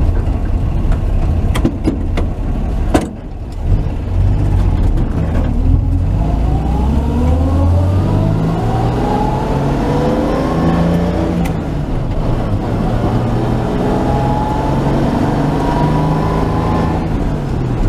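1949 Chevy truck's engine heard from inside the cab as the truck accelerates on the road. The engine note dips briefly about three seconds in, then rises steadily in pitch, eases off, and rises again as the truck gets up to about 45 mph.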